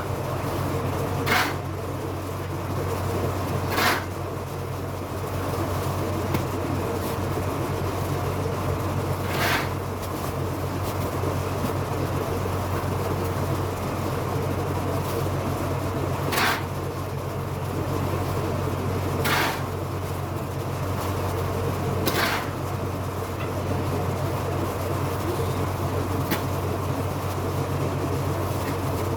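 A shovel scrapes through rice-husk litter in short strokes every few seconds, over a steady low machine hum.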